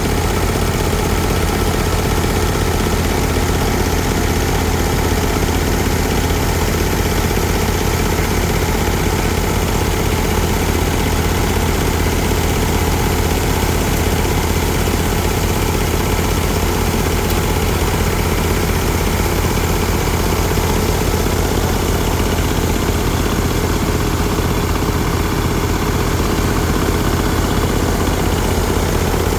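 Diesel tractor engine idling steadily, running smoothly with its fuel system bled and filter cleaned.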